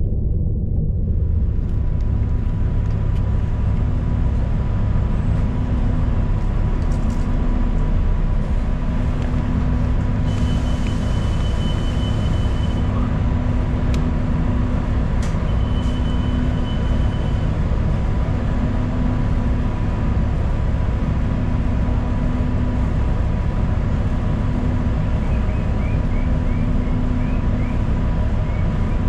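Interior of a moving city transit bus: a steady, heavy rumble of engine and road noise in the cabin, with a low hum that swells and fades about every two seconds. Two brief high-pitched tones sound about ten and fifteen seconds in.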